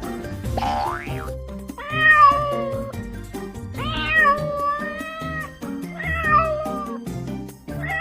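Domestic cat meowing, three drawn-out meows, the middle one the longest, over background music.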